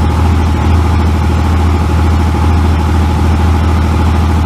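2nd-gen Cummins 24-valve 5.9-litre inline-six turbo diesel with 84 mm injector lines, idling steadily with a deep, even rumble and a slight lope.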